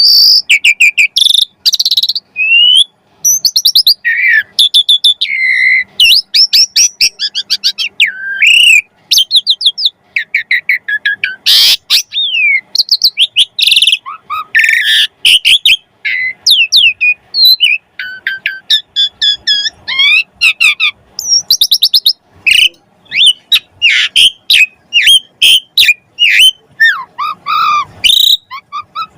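Asian pied starling (jalak suren) in full song: a loud, near-continuous run of short whistles, chatters and fast up-and-down sweeps, packed with mimicked notes.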